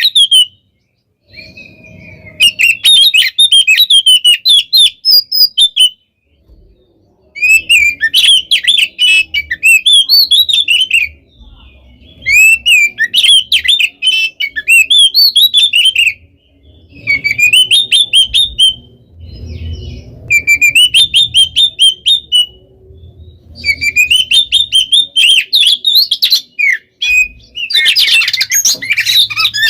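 Oriental magpie-robin (kacer) singing loudly in fast, dense bouts of varied chattering and whistled phrases, each a few seconds long with short gaps between them, and a denser burst near the end. This is a male in full 'gacor' song.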